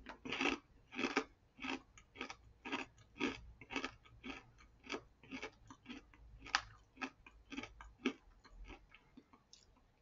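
Someone chewing crunchy fried squid senbei, a breaded squid snack, at about two crunches a second; the crunches grow fainter and sparser and stop shortly before the end.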